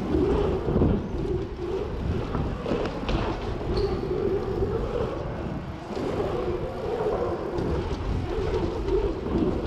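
Mountain bike being ridden, the rumble of its tyres and frame with a few sharp knocks and rattles over the course.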